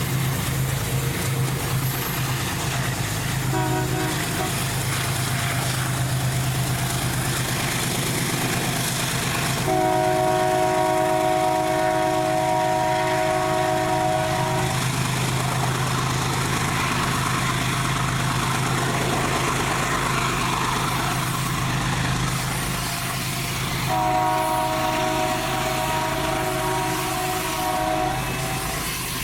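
Locomotive's multi-note air horn sounding three times: a short toot about three seconds in, a long blast of about five seconds, and another of about four seconds near the end. A steady low engine hum runs under the horn throughout.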